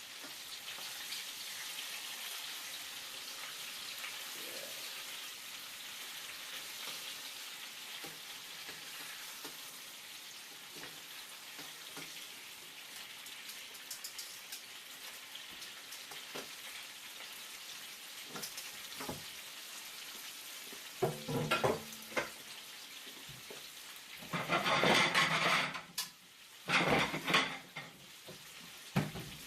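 Breaded chicken breasts frying in oil on low heat, a steady gentle sizzle. Near the end several louder short noises break in, the loudest lasting about two seconds.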